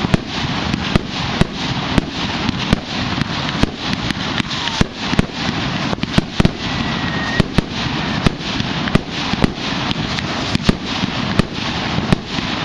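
Fireworks going off in rapid succession: a steady hiss and crackle of sparks with sharp bangs and pops coming about three times a second.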